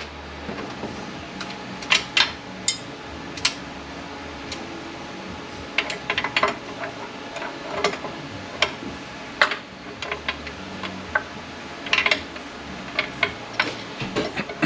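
Irregular sharp metal clinks and knocks of hand tools against transmission parts as a bearing is worked off a ZF 9HP48 (948TE) automatic transmission, some in quick clusters, over a steady background hum.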